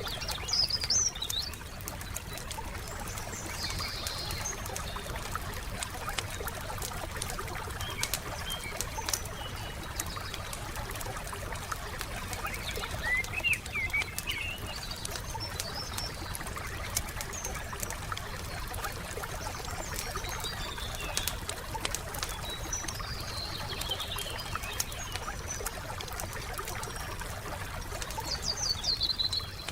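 Wood campfire crackling with frequent small pops, while songbirds chirp in short phrases every few seconds over a soft steady background hiss.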